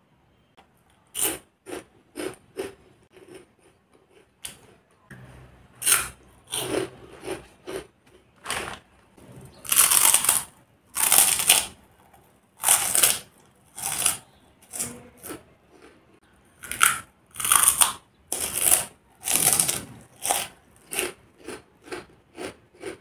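Close-up crunching as a wheel-shaped puffed snack (puff namkeen) is bitten and chewed: a run of short, crisp crunches, one or two a second, loudest in the middle.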